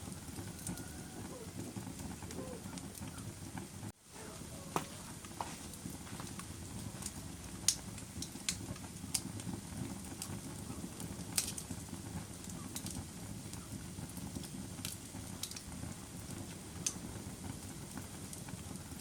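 Wood fire burning in a fireplace: a steady low rumble of flames with scattered sharp crackles and pops. The sound drops out for a split second about four seconds in.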